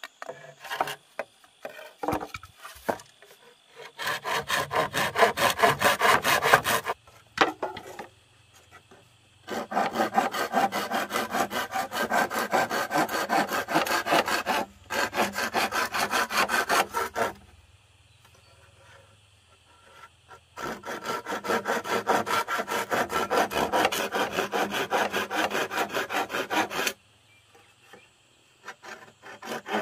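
Hand saw cutting through wood in three long runs of quick, even back-and-forth strokes, with short pauses between the runs and a few light knocks near the start and end.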